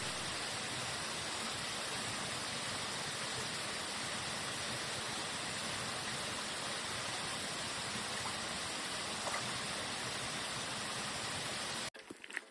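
Steady rushing of running water, even and unbroken, cutting off abruptly near the end.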